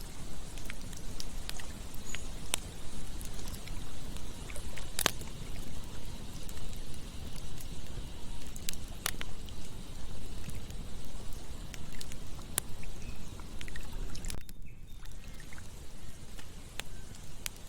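Campfire crackling with scattered sharp pops, the loudest about five and nine seconds in, over the steady rush of flowing water from a river.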